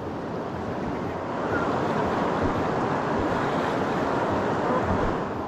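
Rushing river water around a raft, a steady noisy wash that grows a little louder about a second in.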